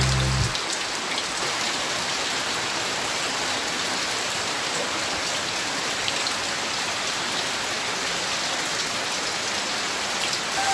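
Steady rain falling, an even hiss with a fine patter of drops. The song's music cuts out about half a second in.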